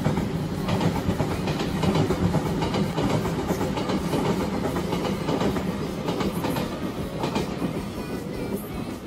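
Electric train running past on the rails: a steady rumble of wheels and motors with repeated clacks from the rail joints, easing a little near the end.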